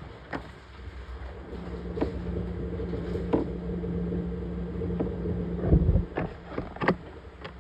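Washing machine running: a steady low motor hum and rumble, with scattered clicks and knocks and a heavier thump near six seconds in.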